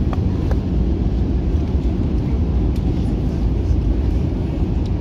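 Steady low cabin roar of an Airbus A321-200 airliner in flight, heard from inside the passenger cabin, with a couple of faint clicks near the start.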